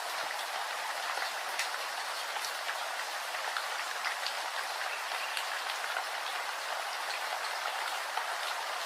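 Steady rain, a dense hiss with scattered individual drops ticking sharply on a surface.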